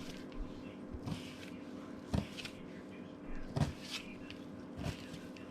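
Knife cutting fish fillets into bite-sized chunks, the blade knocking on the cutting board about once a second or so, over a steady low hum.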